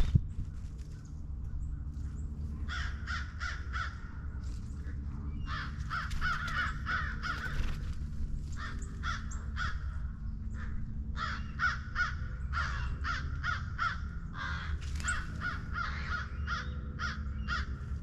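Crows cawing in several runs of short, rapidly repeated calls, with brief pauses between the runs, over a steady low rumble.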